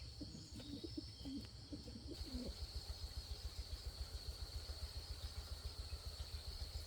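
Pigeons cooing in low, wavering calls for the first two seconds or so, over a steady high trilling of insects. From about two seconds in, a fast low throbbing joins.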